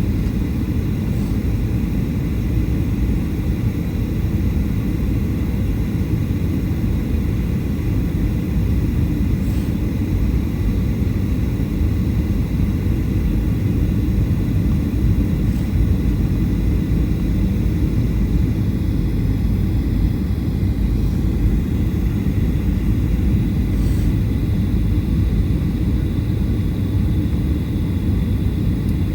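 Cabin noise of a Boeing 737-800 in flight: a steady rumble of airflow and its CFM56 engines, with a faint high whine.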